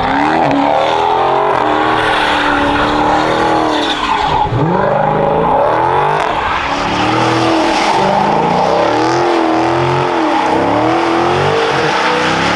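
Dodge Hellcat's supercharged V8 revving hard, its pitch rising and falling again and again, while the rear tyres spin and squeal through a donut.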